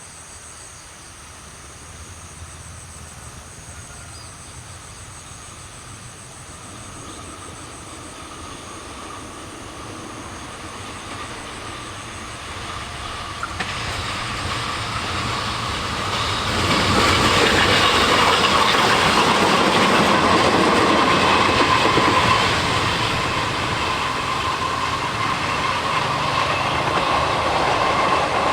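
A pair of CC201 diesel-electric locomotives running light, approaching and growing steadily louder, with the engines running and wheels rolling on the rails. They are loudest a little past halfway, then ease off slightly. A steady high whine runs under the rumble through the second half.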